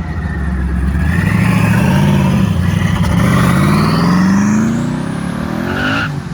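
Twin-turbocharged 5th-gen car accelerating away hard: the engine note climbs steadily through the revs with a high whistle rising alongside it, then eases off near the end.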